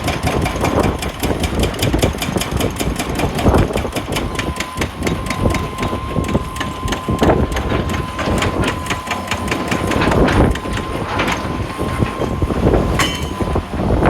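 Heavy diesel earthmoving machinery running under load, with a fast even clatter and a steady whine that sets in about a third of the way through.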